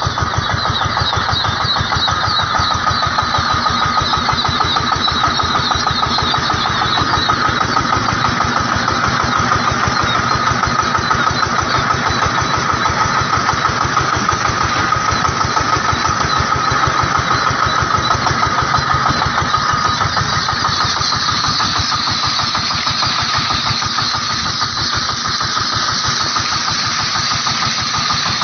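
An engine running steadily, its rapid, even firing pulses unbroken, with a steady high whine over it.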